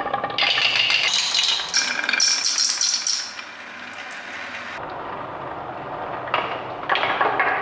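Marbles clattering and clinking down a marble run, hard ringing clicks in quick succession. There is a quieter rolling stretch in the middle, then another burst of clatter near the end.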